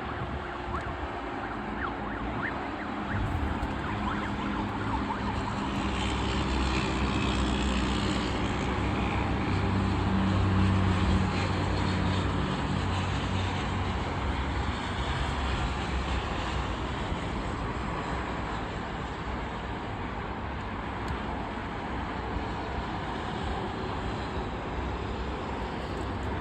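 Jet airliner departing, its engine noise swelling to its loudest about ten seconds in and then slowly fading as it climbs away.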